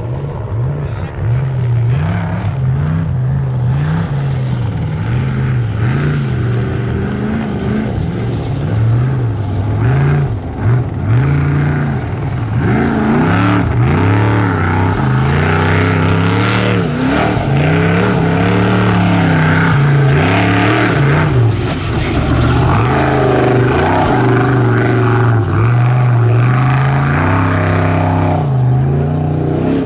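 Trophy Truck desert race truck engine at high revs, the pitch repeatedly rising and falling as the throttle is worked on and off.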